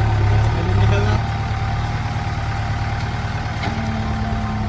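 Tractor engine running steadily with a low hum, easing back slightly about a second in.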